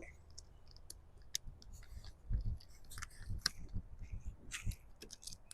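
Quiet, irregular crinkling and small clicks of stencil sheets being handled, with low wind buffeting on the microphone in a few gusts.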